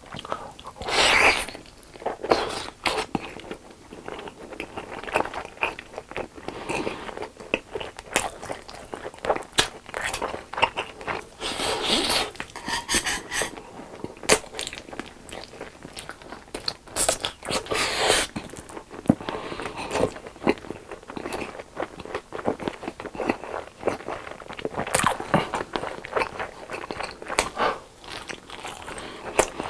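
Close-miked eating: crunching bites into crispy boneless fried chicken and chewing, a steady run of sharp crunches and mouth sounds.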